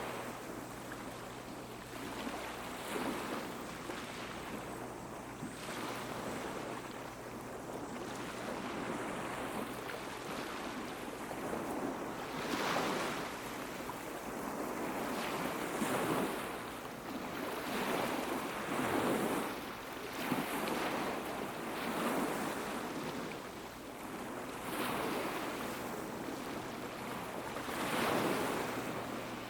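Small waves washing onto a beach, each surge rising and falling away every two to three seconds.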